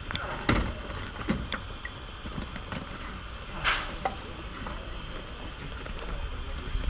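Steam train running with a steady low rumble and a few sharp knocks, and a short hiss about three and a half seconds in.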